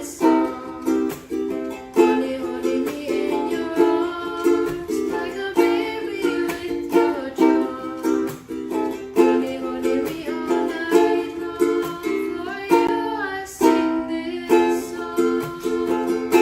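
Ukulele strummed in a steady rhythm, chords changing every few strokes.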